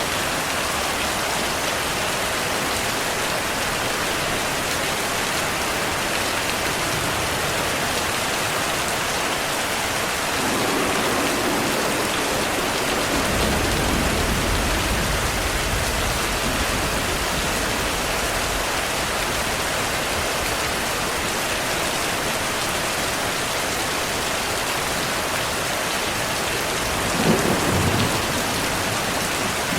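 Steady rain with thunder: a long low rolling rumble builds from about ten seconds in and fades over several seconds, and a sharper, shorter clap comes near the end.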